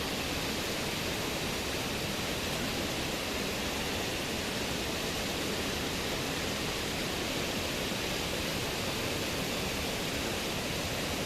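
Flowing river water rushing steadily, an even unbroken rush.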